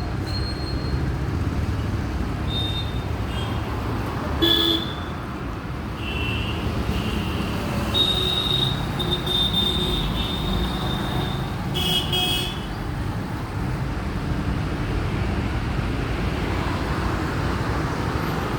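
Steady road traffic rumble with several short horn toots, the longest held about three seconds.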